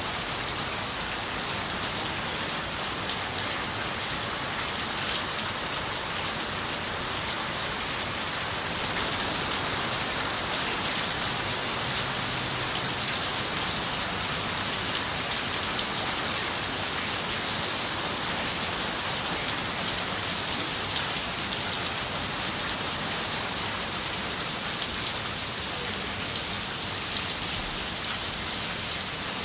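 Steady rain falling on a window, a dense hiss with many small drops pattering against it; the rain gets a little heavier about eight seconds in.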